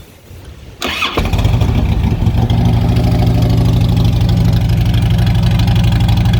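Motorcycle engine starting about a second in, then idling steadily through unbaffled Mutazu fishtail slip-on exhaust pipes.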